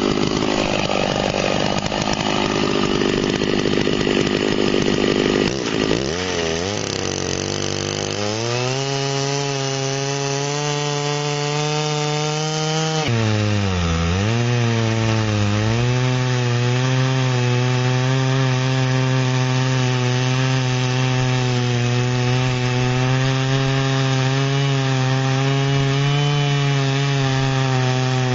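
Two-stroke chainsaw on a chainsaw mill running at full throttle, ripping lengthwise through a log to cut 4x4 posts. The engine sound is rough at first, then settles into a steady note about eight seconds in; near the middle the note dips briefly and comes back up.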